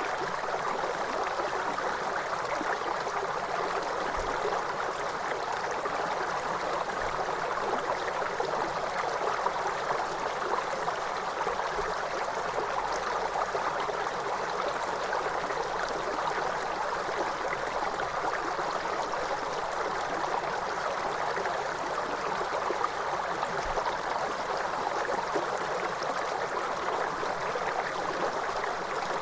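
Waterfall water cascading in a steady, even rush with no breaks.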